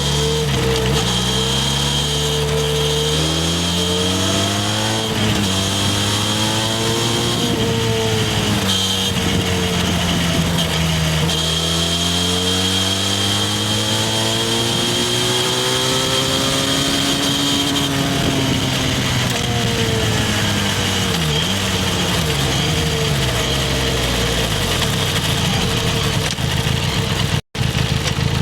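Harley-Davidson X350's parallel-twin engine on the move, its pitch climbing as it accelerates, dropping back and climbing again several times, then holding steady for the last few seconds. The sound cuts out for an instant near the end.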